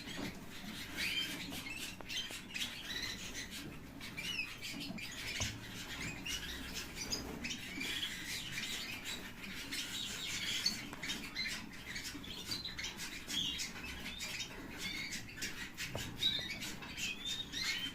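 White opal canaries chirping in quick, short scattered calls, with faint clicks and taps throughout.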